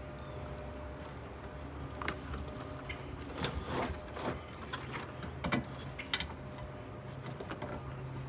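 Scattered light clicks, knocks and rattles of something being handled and wedged in place to hold it up, the sharpest knock about six seconds in, over a steady low hum.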